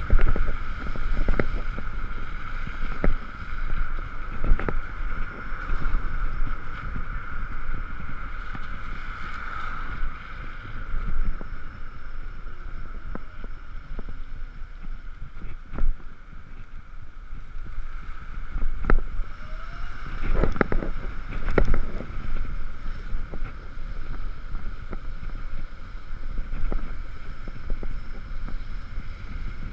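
Riding an Ekoway ML5000 electric vehicle on a wet road in the rain: wind rushing over the GoPro's microphone and tyre noise, with a steady high whine. Scattered sharp knocks and bumps come through, several of them in the second half.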